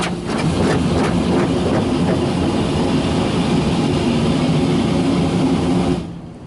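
High-pressure water jets of an automatic car wash blasting against the car, heard from inside the cabin, over a steady pump hum. The spray cuts off suddenly near the end.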